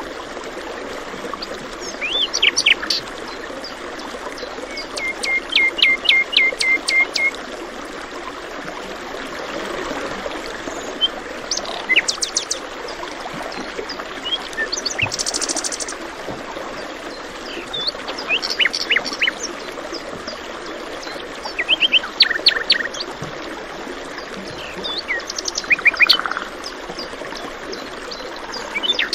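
Wild birds chirping and singing in short bursts, including a quick run of about ten repeated notes, over the steady rush of running water.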